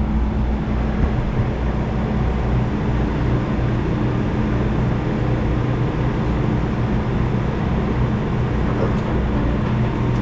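Excavator diesel engine running steadily under work, a constant low drone.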